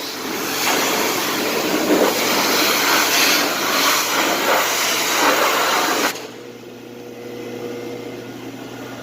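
High-pressure water spray from a pressure washer wand, a loud steady hiss that cuts off sharply about six seconds in when the trigger is released. A steady low engine hum from the gas-powered pressure washer runs underneath and carries on after the spray stops.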